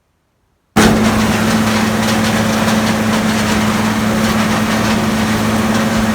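After a moment of silence, a Gleaner combine's engine and threshing machinery start abruptly about a second in and run at a steady, loud level with a constant low hum, as in corn harvesting.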